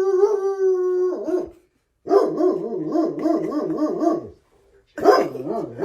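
Dog vocalising: a drawn-out, steady howl-like whine ending about a second and a half in. It is followed by a roughly two-second call that wavers rapidly up and down in pitch, and a shorter wavering call near the end.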